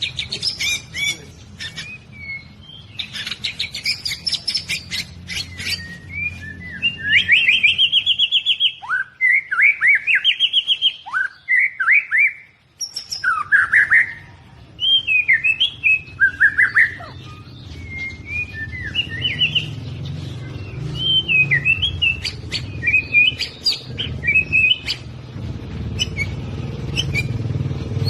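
White-rumped shama singing a long, varied song of loud whistled phrases, rapid trills and sharp downward-sweeping notes, with short pauses between bursts.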